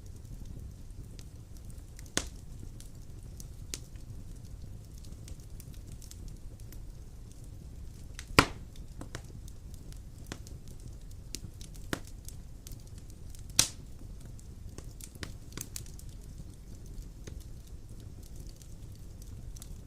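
Wood fire burning in a fireplace: a steady low rumble of flames with scattered sharp crackles and pops, the loudest pops about eight and thirteen and a half seconds in.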